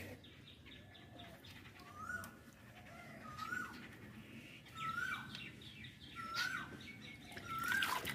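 A bird calling over and over, a short call that rises and then drops, about once every one and a half seconds. Light water splashing and sloshing from hands moving a net in a fish tank.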